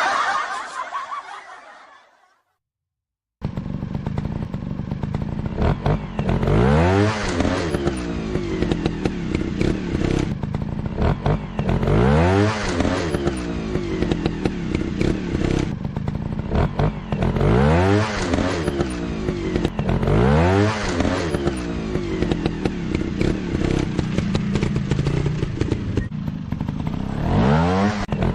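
A fading tail of sound, then a second of silence, then a dirt bike engine running with repeated throttle blips every few seconds, its pitch rising and falling with each rev.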